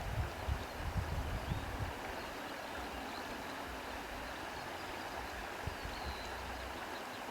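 Steady wind noise, with low gusty rumbles in the first couple of seconds, and faint bird chirps, one short chirp about six seconds in.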